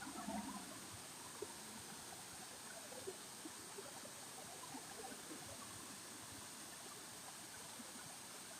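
Faint, steady rush of running water, with a few small ticks.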